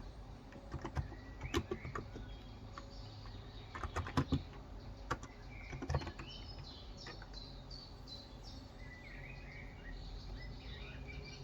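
Irregular keystrokes on a Cox Endeavor tenkeyless electro-capacitive keyboard with 35 g switches, thinning out about six seconds in. Birds chirp repeatedly through the second half.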